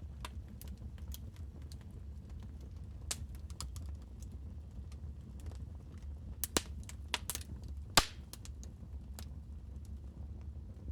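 Wood fire crackling in a fireplace: scattered sharp pops and snaps over a low steady rumble, with a cluster of louder pops about six and a half seconds in and the loudest snap about eight seconds in.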